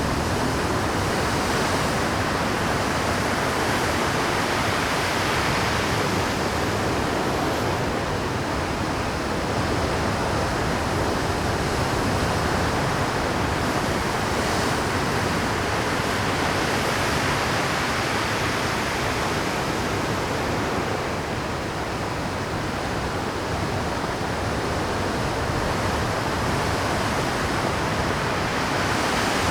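Rough Pacific surf washing over a rocky shore at high tide: a continuous, dense rush of breaking water that swells gently every several seconds, with no single crash standing out.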